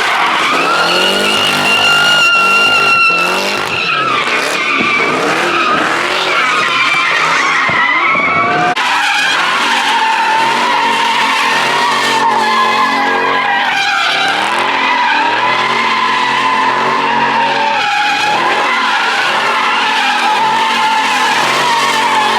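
Car tyres squealing continuously while the engine revs up and down, as in a burnout or donuts. A sudden change in the sound about nine seconds in.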